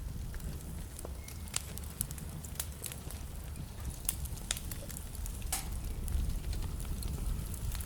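Wood fire burning in a fireplace, with a low steady rumble under irregular sharp crackles and pops, a few of them louder.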